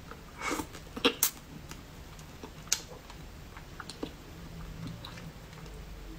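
Close-miked chewing of spicy crab pieces: scattered short wet clicks and smacks of the mouth working on crab meat.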